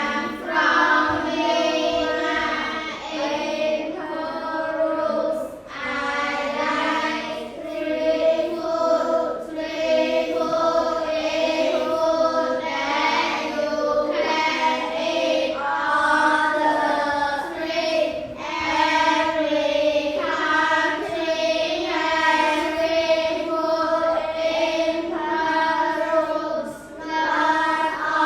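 A class of children reading aloud in unison, a steady sing-song chant of many voices with brief pauses between phrases.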